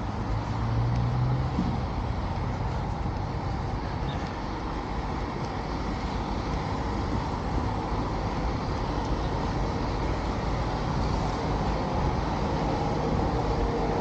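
Road traffic passing on a city street: a steady noise of car engines and tyres, with a brief low engine hum about a second in.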